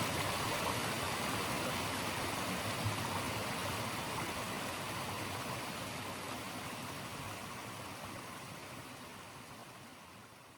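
Steady rush of flowing water, an even hiss without distinct splashes. It fades out gradually over the second half.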